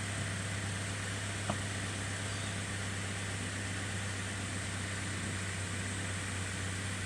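Subaru Forester's flat-four boxer engine idling steadily at an even speed, with a single sharp click about one and a half seconds in.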